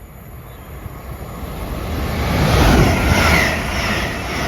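Two coupled ScotRail Class 385 electric multiple units passing through the station, a rumbling rush that builds over the first three seconds and then stays loud. In the second half, a beat repeats about twice a second.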